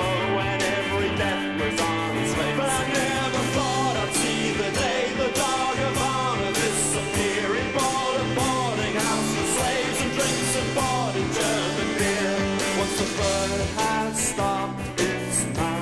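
Guitar rock band music: electric guitars over bass and a steady drum beat, in a passage without sung words.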